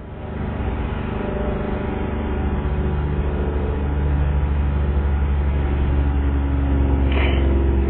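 An engine running steadily with a low hum that grows louder over about the first second and then holds.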